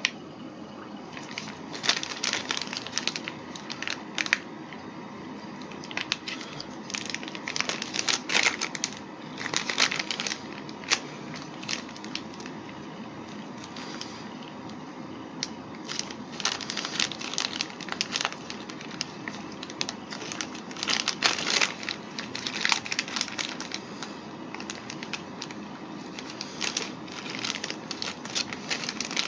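Thin plastic candy-kit tray and small plastic spoon handled as soft paste is pressed into the tray's squares: irregular crinkling and clicking in clusters, with short pauses between them.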